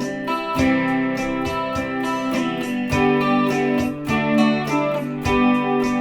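Guitar strummed in a steady rhythm, chords ringing under a changing melody line, with no singing.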